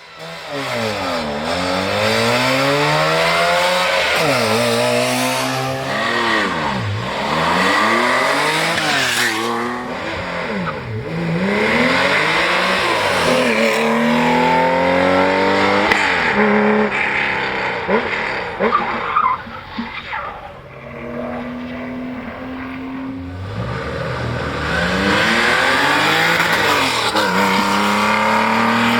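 Rally car engines revving hard, the note climbing and dropping sharply again and again through gear changes. Several cars pass in turn, with a quieter lull about two-thirds of the way through before another car revs up near the end.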